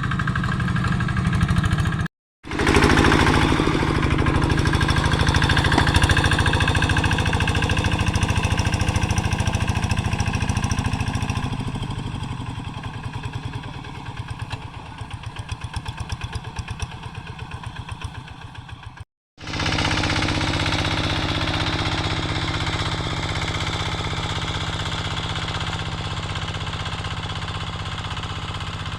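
Quick G3000 two-wheel hand tractor's single-cylinder diesel engine running steadily with a fast regular chug. It gets quieter and more plainly pulsing for several seconds in the middle, and the sound cuts out for a moment twice, about two seconds in and about two-thirds through.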